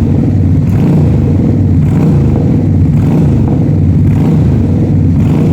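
V-twin motorcycle engine running loud and steady through an SC-Project aftermarket exhaust, with slight swells every second or so.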